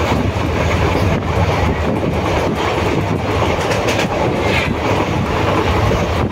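Train running along its rails, heard from aboard: a steady rumble and rush with scattered clacks of the wheels.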